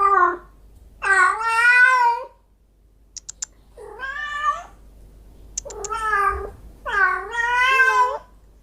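A domestic cat meowing repeatedly: five drawn-out meows, each about half a second to a second long, with a few short clicks between them.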